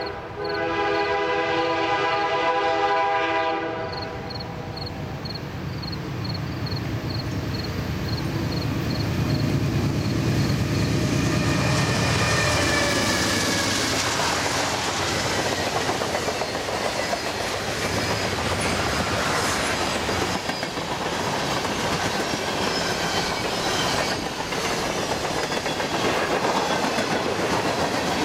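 CN freight train passing. The locomotives' air horn sounds a steady chord that stops about four seconds in, with a bell dinging. Then the two diesel locomotives run past with a heavy low engine sound, and the freight cars roll by with steady wheel clatter on the rails.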